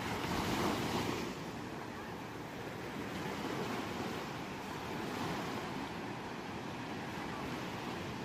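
Ocean waves breaking and washing on a shore. A bigger wave crashes in the first second, then softer surges follow.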